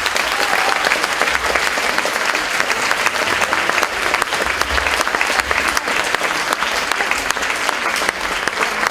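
Concert-hall audience applauding steadily, a dense, even clatter of many hands clapping.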